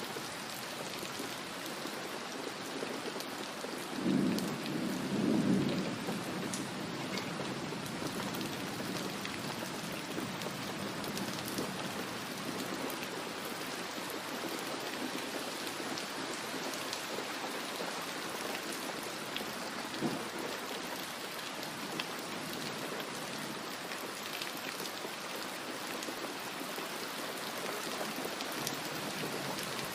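Steady rain with a low rumble of thunder swelling about four seconds in and lasting a couple of seconds. A short, sharp crack comes about twenty seconds in.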